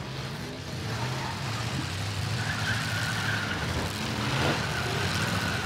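Several full-size V8 demolition-derby cars' engines running and revving together, the noise building steadily louder.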